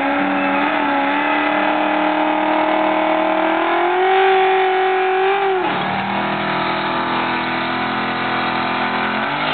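Twin-turbocharged Buick Roadmaster's V8 engine held at high revs, climbing a little higher about four seconds in, then dropping sharply near six seconds and holding at a lower steady speed before rising again near the end.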